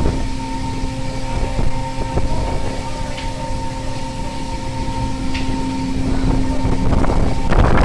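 Fishing vessel's engine and deck machinery running with a steady hum over low rumbling wind and sea noise. A short burst of knocking comes near the end.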